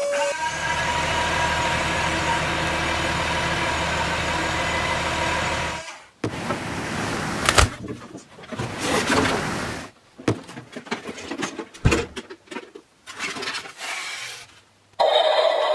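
A steady engine-like running sound with a low rumble for about six seconds, then it cuts off and gives way to scattered knocks and clicks.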